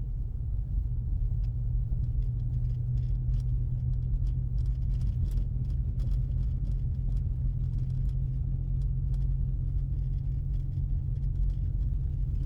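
Steady low drone inside a 2024 Ford Mustang EcoBoost's cabin while driving on a snow-covered road: the 2.3-litre turbocharged four-cylinder running under light load, with tyre and road noise and faint scattered ticks.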